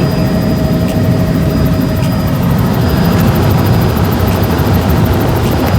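Helicopter in flight, its rotor and engine running steadily as a loud, continuous low rumble.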